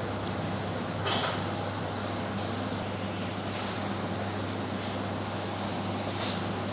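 A few short clinks of kitchen utensils over a steady low hum; the sharpest clink comes about a second in.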